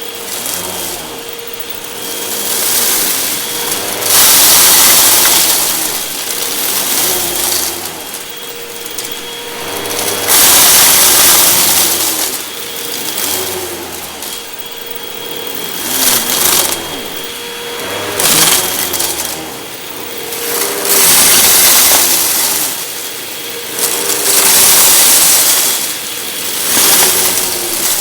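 Hoover WindTunnel 2 Rewind upright vacuum cleaner running with a steady motor whine, its hiss swelling and fading every two to three seconds as it is pushed forward and pulled back over carpet. The owner says its belt is worn and needs replacing.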